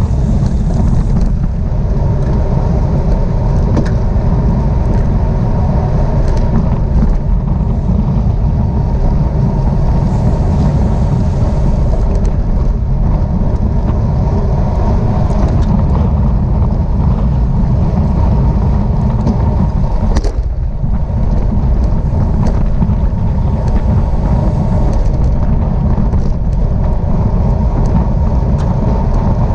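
Steady, loud wind rushing over the microphone of a camera riding along in a bicycle road race, the rumble heaviest in the low end.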